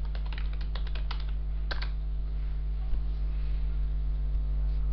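Computer keyboard typing: a quick run of keystrokes in the first couple of seconds, then a few scattered keys near the end, over a steady low electrical hum.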